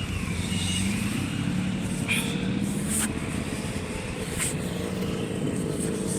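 Motorcycle engine running steadily at low revs with an even hum, with a few brief clicks over it.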